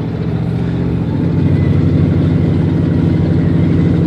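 1994 GMC Yukon's engine running, picking up and growing louder about a second in.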